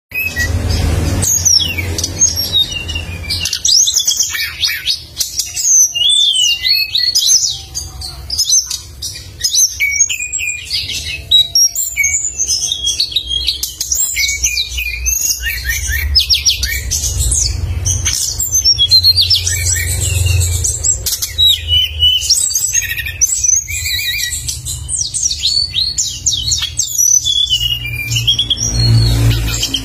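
A songbird in full song, pouring out a continuous stream of rapid, sharp high chirps and trills with hardly a pause, over a steady low hum.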